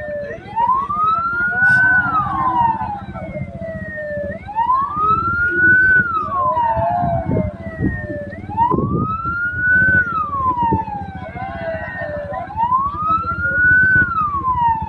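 Hearse siren wailing slowly, rising and falling about every four seconds, with a fainter second siren tone sliding out of step with it, over a steady vehicle engine and road rumble.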